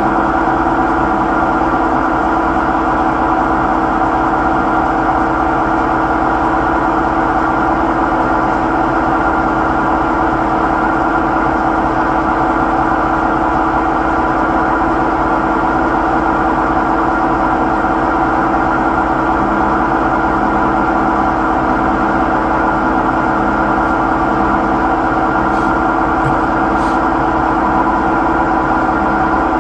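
Samsung washing machine on its spin cycle, running with a loud, steady drone of several held tones over a low rumble. This is the abnormal spin noise that keeps coming back despite yearly repairs.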